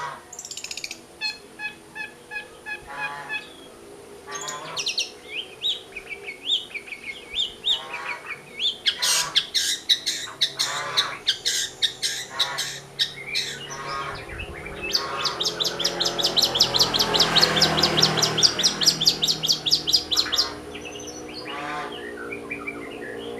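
Long-tailed shrike (cendet) singing a varied song of short chirps and phrases, with a fast rattling trill about fifteen seconds in that lasts some five seconds and is the loudest part. It is a lure recording, played to stir young shrikes into song.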